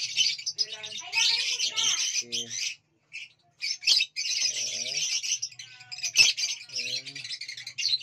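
Many birds chirping continuously in a dense chorus, likely pet cockatiels, with a brief pause about three seconds in and a few lower calls mixed in.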